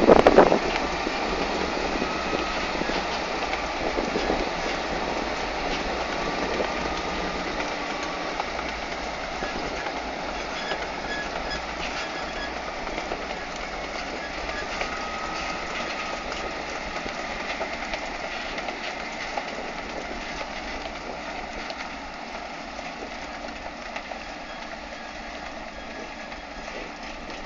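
Farm machinery at an onion harvest: tractor and harvester running with a steady mechanical clatter and faint squeals, fading slowly as it moves away.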